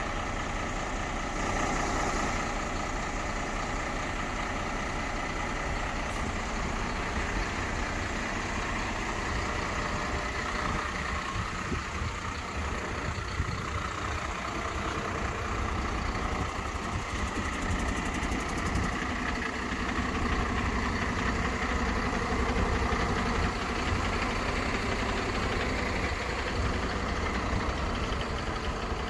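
Mercedes-Benz Econic refuse truck's diesel engine running steadily at idle, a continuous low rumble with no big changes in speed.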